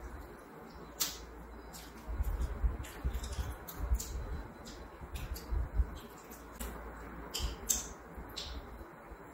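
Close-miked eating: irregular wet mouth clicks and lip smacks as meat and rice are chewed, with soft low thuds in between.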